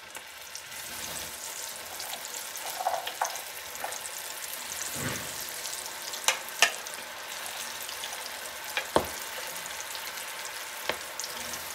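Arrowroot-coated chickpeas deep-frying in fully heated oil in a kadhai: a steady sizzle, with a few sharp clicks and pops, two close together about halfway through and one more a few seconds later.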